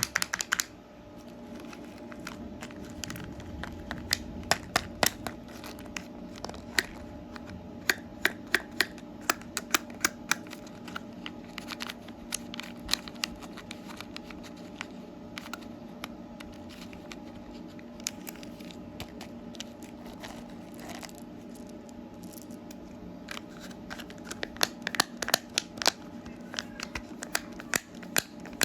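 Candy wrappers being torn open and crinkled, giving many sharp crackles and clicks over a steady low hum.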